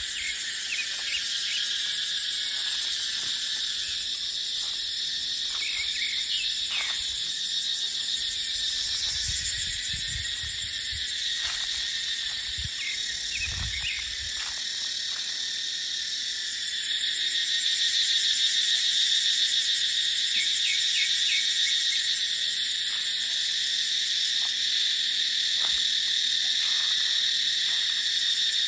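A dense chorus of cicadas buzzing steadily at a high pitch, growing louder a little past halfway. A few low gusts of wind rumble briefly under it.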